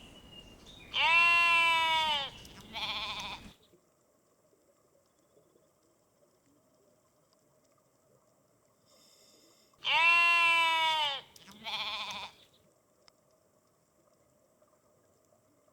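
A ewe bleating, played twice; each time it gives a long baa and then a shorter one. These are the calls of a Norwegian sheep to her lamb.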